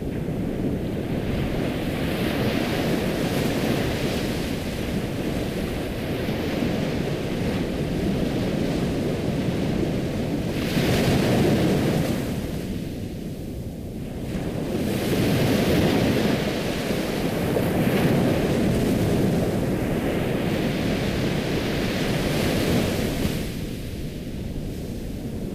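Ocean surf: waves washing in and breaking as a steady rushing hiss that swells and ebbs every few seconds. It falls back twice, about halfway through and near the end.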